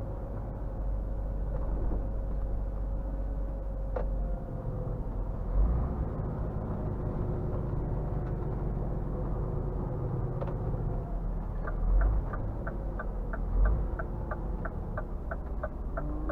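Scania R450 truck's diesel engine and drivetrain running with a steady low rumble while driving, with a few low thumps. About two-thirds of the way in, the turn-signal indicator starts ticking in the cab, about three even ticks a second.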